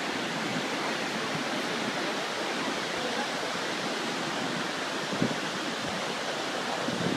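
Steady rush of a large waterfall, an even roar of falling water. A brief low bump comes about five seconds in.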